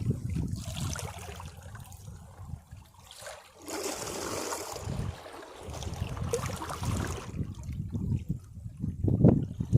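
Sea waves washing against rocks, water sloshing in and trickling back off them in uneven surges. There is a lull about three seconds in, and the strongest wash comes near the end.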